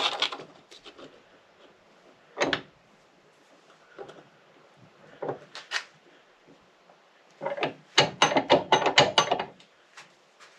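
Handling noise from the rope and plastic tube of a knee ascender being worked by hand: rubbing and scattered clicks. There is a single sharp knock a couple of seconds in, and a dense run of clicks and scrapes about two-thirds of the way through.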